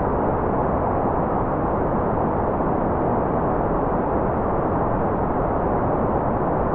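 Steady generated white noise: an even, unbroken hiss with no tones or rhythm, weighted toward the low and middle pitches so it sounds dull and rushing rather than bright.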